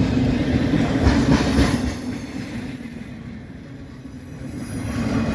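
The last cars of a long freight train passing, with wheels rumbling and clacking on the rails and a steady squeal. The sound dies away about two seconds in and swells again near the end.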